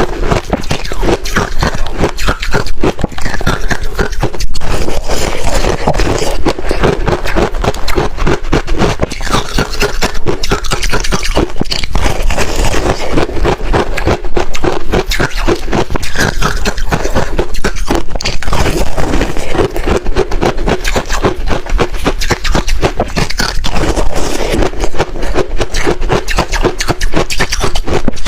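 Freezer frost crunching and scraping up close, a dense run of gritty rasps and crackles without pause.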